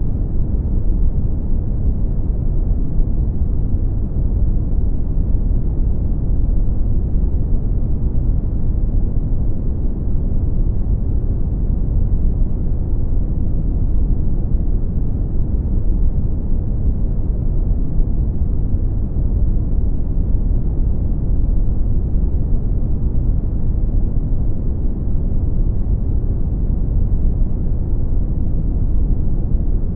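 Brown noise: a steady, deep rumbling hiss, strongest in the lows and dull in the highs, with no change over time.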